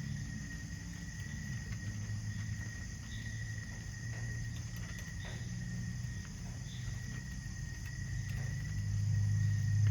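Insects, crickets among them, making a steady high-pitched continuous trill, with faint short chirps above it. Underneath is a low hum that grows louder near the end.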